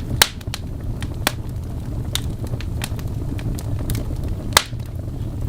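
Wood fire crackling in a fireplace: a steady low rumble with scattered sharp pops, the loudest just after the start and again about four and a half seconds in.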